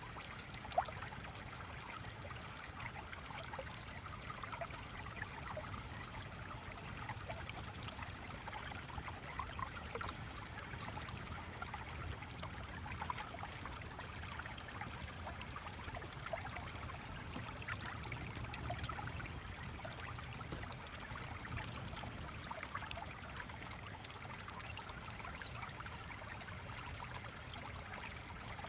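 Stream water trickling and burbling steadily, with a single sharp click a little under a second in.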